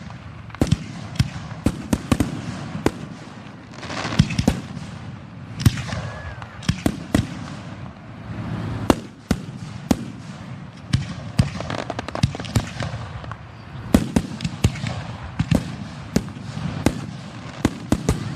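Aerial fireworks going off close by: a rapid, irregular run of sharp bangs, some in quick clusters, over a continuous rumble and crackle.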